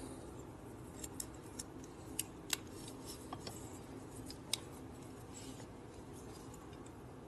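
A handful of short, light clicks and taps from small parts being handled and fitted, spaced irregularly over the first few seconds, over a faint steady background noise.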